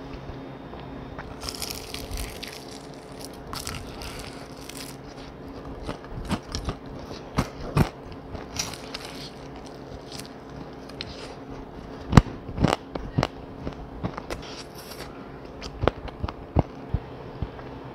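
Close-up biting and crunching into fried chicken: irregular sharp crunches, loudest about twelve seconds in, over a faint steady hum.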